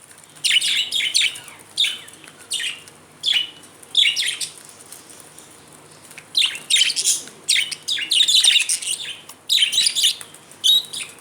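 Budgerigars chirping and chattering in quick bursts of short high chirps, with a lull of a second or two near the middle.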